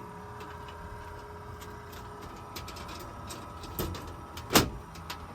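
A desktop PC running with the steady hum and whine of its faulty bottom cooling fan, the odd noise that has sounded at every start-up for days. Clicks and knocks come as the case side cover is taken off, the loudest a sharp knock a little after four and a half seconds in.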